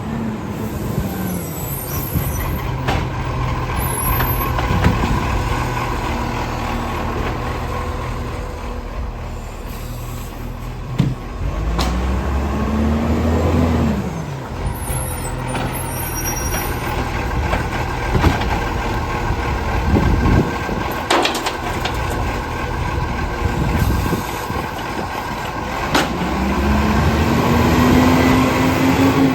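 Garbage truck working a bulk rubbish pickup: its diesel engine revs up and drops back twice, with sharp metallic clunks and short air hisses in between.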